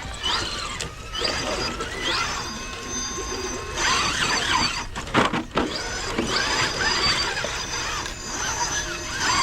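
Electric motors and gear trains of 1/10-scale RC rock crawler trucks whining as they climb, the pitch rising in short surges with the throttle. A few sharp knocks about five seconds in.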